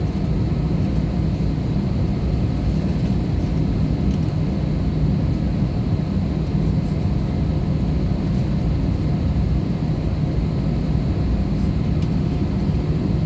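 Steady drone of engine and airflow noise inside the cabin of an Airbus A320-214 with CFM56 engines, a constant low hum with a faint steady whine above it.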